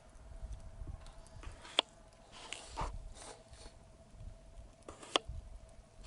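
People eating ramen noodles: chewing and slurping sounds, with two sharp clicks, one about two seconds in and one near the end.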